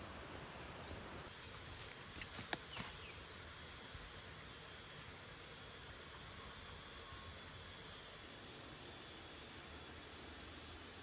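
Insects trilling in one steady high-pitched tone that comes in abruptly about a second in, with a sharp click a little later and a few short chirps near the end.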